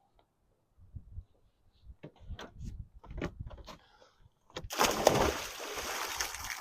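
Scattered knocks and thumps of someone climbing into a cold plunge tub, then about four and a half seconds in, two seconds of water splashing and sloshing as the body goes under.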